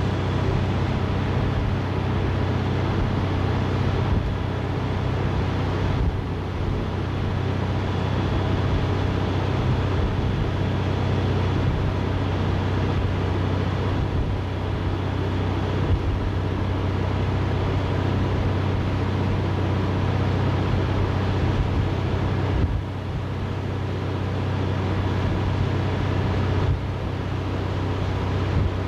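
Boat engine running with a steady low drone and a constant hum, heard aboard the moving boat.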